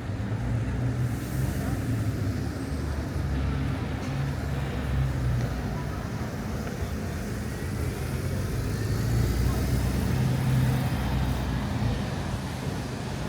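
City street ambience at night, dominated by a steady low traffic rumble that swells and eases as vehicles pass.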